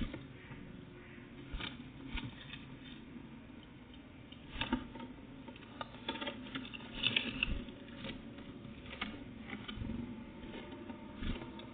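Irregular light tapping and scratching of small birds at a feeder, pecking and hopping, with a busier cluster of taps around the middle.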